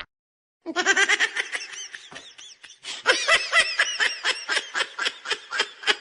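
Long fit of high-pitched laughter: a fast run of short laughs, about five a second, with a brief catch of breath just before the middle.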